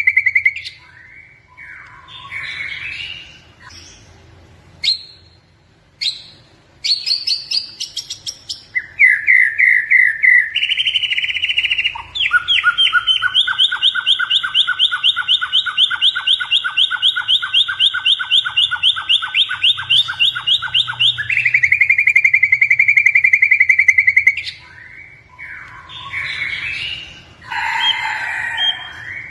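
White-rumped shama (murai batu) in full song: varied whistled phrases and chatter, broken by long runs of fast repeated notes. The longest run comes in the middle and is pitched on two notes at once.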